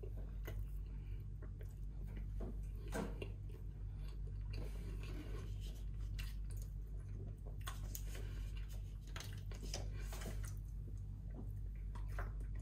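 Close-up chewing of soft garlic bread, with scattered wet mouth clicks and smacks over a steady low hum.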